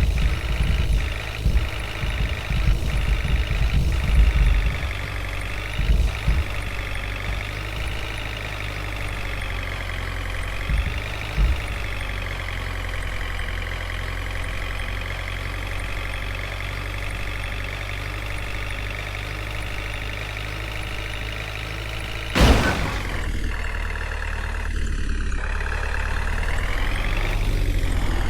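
Diesel engine of a tractor or backhoe loader running steadily, its pitch rising and falling gently as the revs change. A single sharp knock stands out about three-quarters of the way through.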